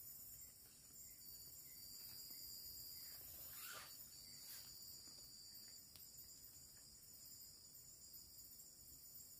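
Faint, steady chorus of crickets and other forest insects, a continuous high-pitched trill with a few brief fainter sounds in the middle.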